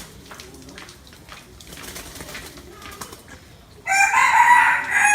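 Faint, low cooing of a spotted dove, then about four seconds in a rooster crows loudly: one long crow of about a second and a half.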